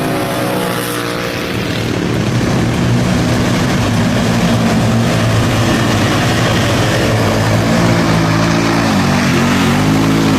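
Motor vehicle engine sound effect: a steady running engine note that revs up and down near the end.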